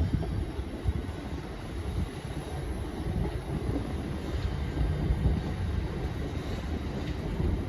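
Class 387 electric multiple unit pulling out of the station, a steady low rumble of wheels and traction.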